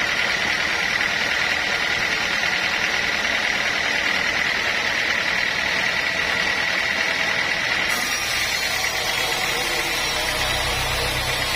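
Sawmill machinery running steadily, with a high whine held until about two-thirds of the way through, where the sound changes; a low rumble comes in near the end.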